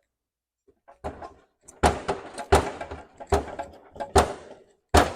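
Six heavy metallic clunks, roughly 0.8 s apart, each with a short ring, as sheet steel is worked at a bench guillotine and press brake.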